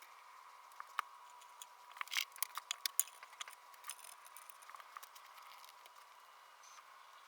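Light clicks and taps of small hard objects being handled, busiest and loudest a couple of seconds in, over a faint steady high-pitched hum.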